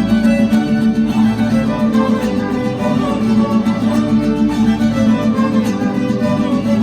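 A Mexican string band playing an instrumental passage: violins carrying the melody over guitars, with harp and bass beneath, steady and unbroken.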